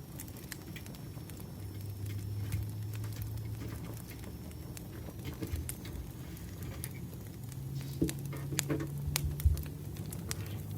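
Campfire crackling, with irregular sharp pops and snaps over a low steady rumble, and a few heavier knocks near the end.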